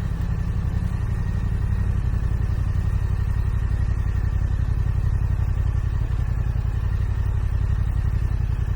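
Yamaha R7 motorcycle's 689 cc parallel-twin engine running steadily, low and even, with no revving.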